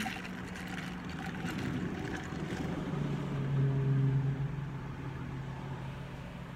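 Low, steady hum of a car engine. It drops in pitch and swells about three seconds in, then eases off again.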